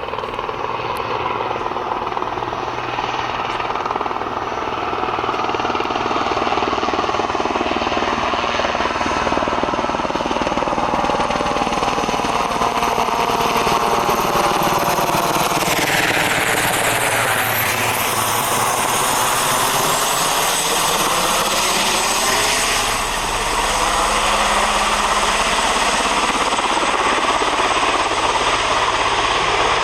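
Military helicopter from the Marine One flight flying low past, its rotor and turbines loud and steady. The tone sweeps down and back up around the middle as it passes.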